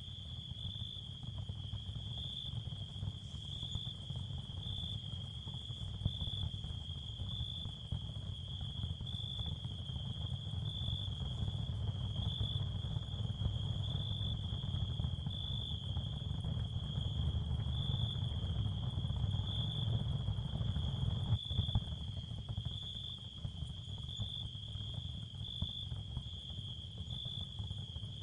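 Ambient sound-field track: a steady, regularly pulsing high cricket chirp over a low rumble, which grows louder through the middle and eases off near the end.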